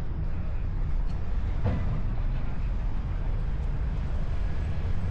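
Steady low rumble of outdoor city ambience, with a faint brief sound about two seconds in.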